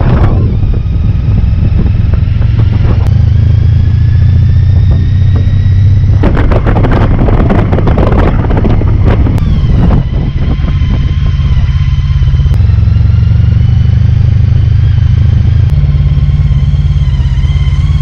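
Motorcycle engine running under way, recorded from the bike. The low drone steps in pitch several times, with a faint whine above it. Wind buffets the microphone in gusts for a few seconds in the middle.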